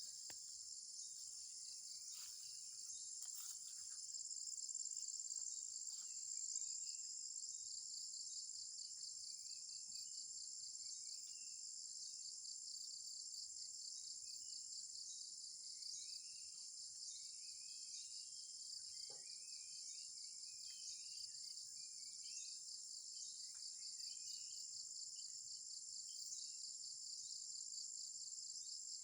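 Dense, steady chorus of forest insects, a continuous high shrill with a fine pulsing trill. A few fainter short chirps are scattered through it.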